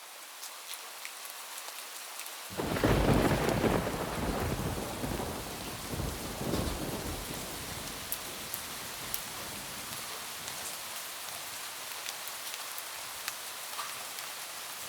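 Heavy rain falling on a roof. It rises in level at the start, and a peal of thunder breaks about two and a half seconds in. The thunder rumbles, swells again around six seconds, and dies away under the steady rain, with scattered drips ticking.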